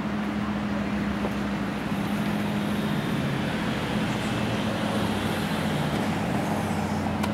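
Aston Martin Virage's 6.0-litre V12 engine running steadily at idle, warming up after a cold start; its low tone holds even with no revving.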